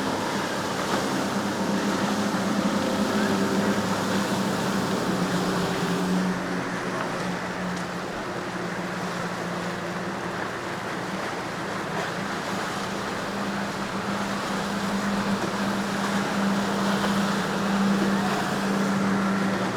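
Motorboat engine droning steadily, its hum growing stronger in the second half, over a constant rush of waves and wind.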